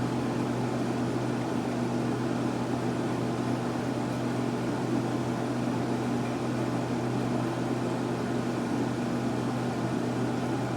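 Steady mechanical hum with a low, even drone and a constant hiss, unchanging throughout.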